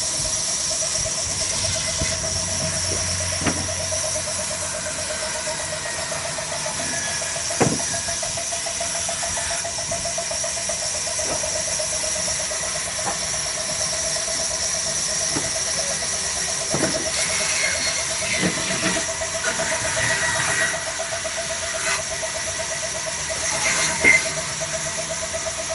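Petter diesel engine running steadily with a constant high squealing whine over it, and a few sharp clicks or knocks, the loudest about a third of the way in and near the end.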